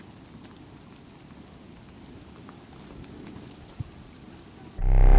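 Quiet outdoor ambience: an insect calls in one steady high-pitched tone over a faint low rumble, with a few light ticks. Loud music comes in suddenly near the end.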